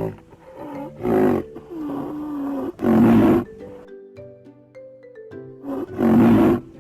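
Loud animal calls, three in all, each about half a second long, over gentle background music with mallet-like notes.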